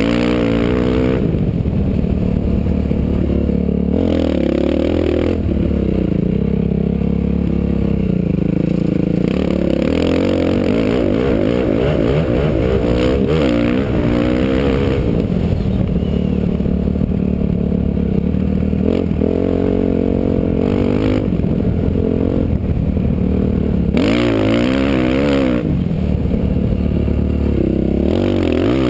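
Motocross dirt bike engine heard from the rider's helmet, revving up and dropping back again and again as the bike accelerates and slows around the track. Several times a rushing hiss swells over the engine for a second or two.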